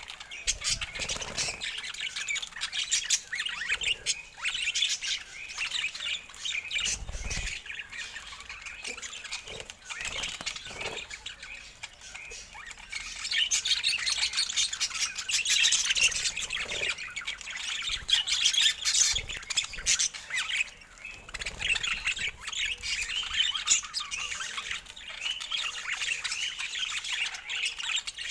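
Budgerigars chattering and squawking continuously, a dense run of high, rapid calls, with a low thump about seven seconds in.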